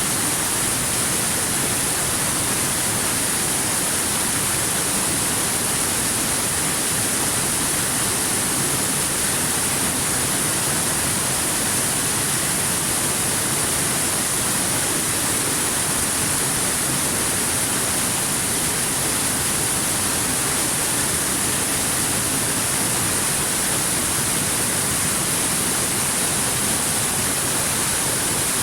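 Waterfall: a steady, unbroken rush of falling water, with a strong high hiss.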